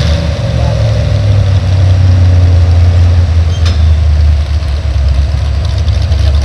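Heavy pulling-vehicle engine running steadily and loud, a deep, even rumble.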